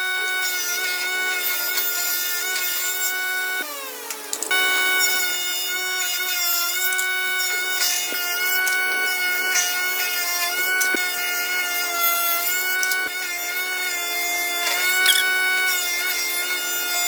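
Electric power tool working wood, its motor running with a steady high whine and a rasping sound from the cut. A little under four seconds in, the motor winds down briefly, then comes back up to speed.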